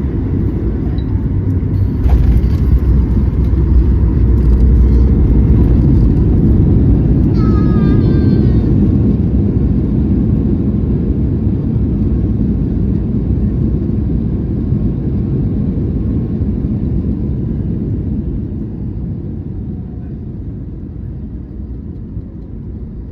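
Flydubai Boeing 737 on its landing roll, a low rumble that jumps suddenly louder about two seconds in, at touchdown and the engines' reverse thrust, then slowly fades as the aircraft slows on the runway.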